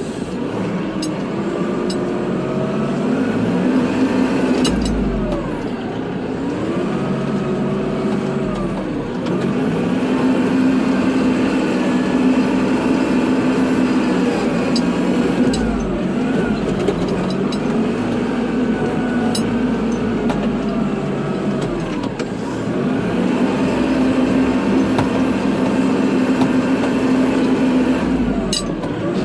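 Kubota tractor's diesel engine running under load while plowing snow. Its pitch dips and recovers every few seconds as the load changes.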